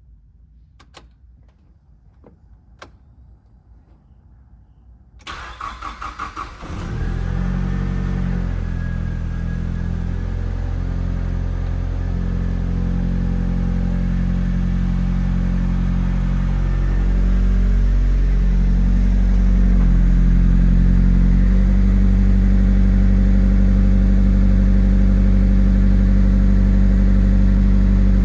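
A few faint clicks, then about five seconds in a starter cranks the 1990 Nissan Pulsar GTi-R's turbocharged 2.0-litre four-cylinder for a second or two. It catches and runs at a steady cold-start idle.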